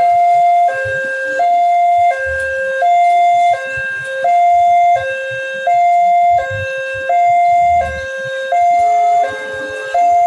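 Railway level-crossing warning alarm sounding a two-tone electronic signal, a lower and a higher tone alternating about every 0.7 seconds, warning that a train is approaching and the barriers are down.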